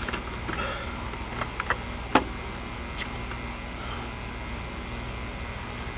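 Bubble wrap and tape being handled: a few scattered crackles and short clicks over a steady low hum.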